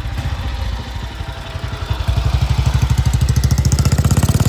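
A 1942 BSA WM20 motorcycle's single-cylinder side-valve engine running with even, crisp exhaust beats. The beats grow louder about halfway through.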